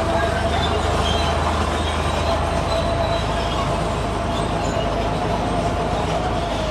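Heavy earthmoving machine's diesel engine running steadily, with a steady high whine held over it that fades near the end.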